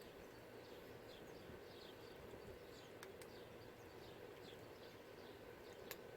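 Faint outdoor background with small birds chirping, short falling chirps repeated about twice a second, and a couple of sharp clicks.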